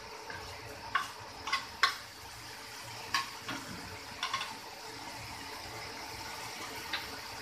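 Onion paste and turmeric frying in mustard oil in a non-stick pan, a steady sizzle, with several short sharp clicks in the first few seconds and one more near the end.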